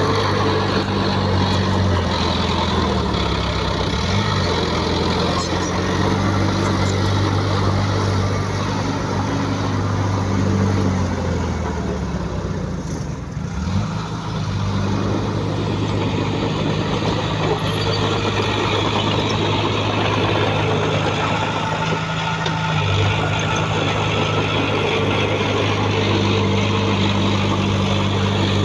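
Heavy diesel engine of earthmoving machinery running steadily, its revs falling and rising several times, with a marked drop and recovery about halfway.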